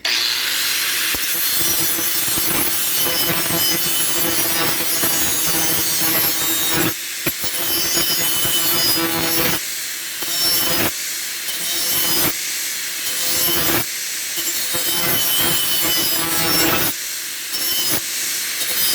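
Electric grinder grinding the steel of an old saw blade to put an edge on it: a steady motor hum under a harsh grinding hiss, easing off briefly several times in the second half.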